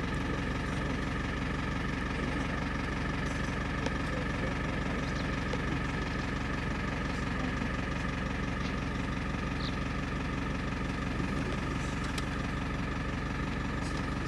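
Safari vehicle's engine idling steadily, an even hum with a low rumble and a few held tones.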